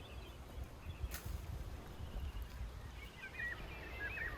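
A small bird chirps briefly in a quick run of short notes near the end, over a faint low rumble of wind, with one sharp crack about a second in.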